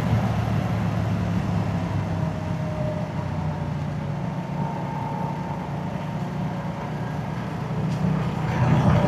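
Moto Guzzi motorcycle's transverse V-twin engine and exhaust running under way, easing off through the middle and pulling harder again near the end.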